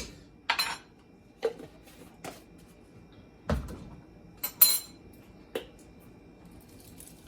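A spoon clinking and knocking against a cooking pot a handful of times as chopped garlic is spooned in. The sharpest clink comes about four and a half seconds in, and a duller knock a second before it.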